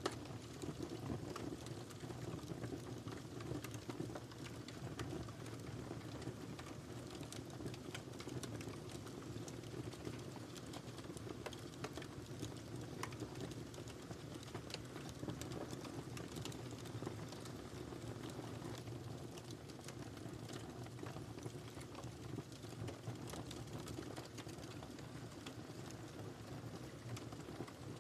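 Wood fire in a fireplace crackling steadily, with many small irregular pops and snaps over a low rumble of burning.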